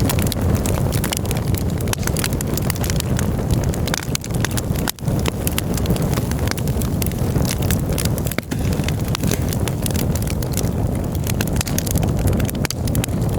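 Campfire crackling and popping, with many sharp snaps over a steady low rumble.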